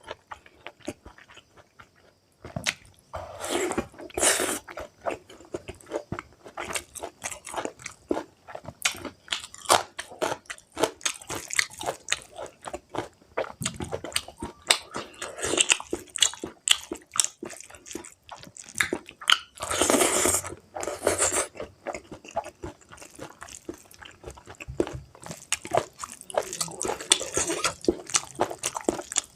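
Close-up chewing and biting of pork meat in curry: a dense run of wet mouth clicks and smacks, with louder, longer noisy stretches about 4, 20 and 27 seconds in.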